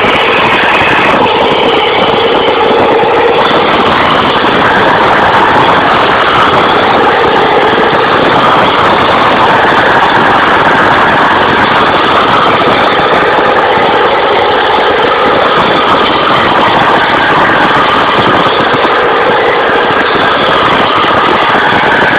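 Tractor engine running loud and continuously, its pitch drifting slightly up and down as it works.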